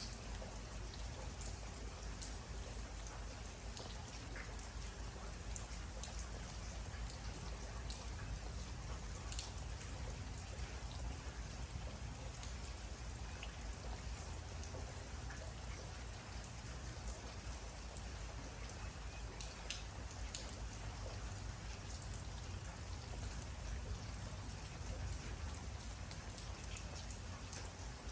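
Steady rain falling, with individual raindrops ticking sharply on a surface here and there over the even patter.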